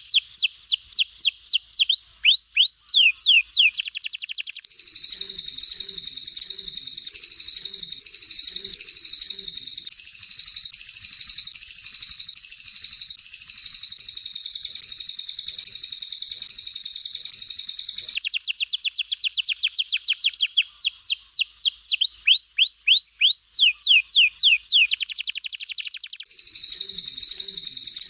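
Recorded songbird training material of a canary and a cililin singing in turn. Fast runs of downward-sweeping whistled notes alternate with long stretches of dense, harsh, rattling high-pitched song: sweeping notes at the start, rattling from about five seconds to eighteen seconds, sweeping notes again, then rattling near the end.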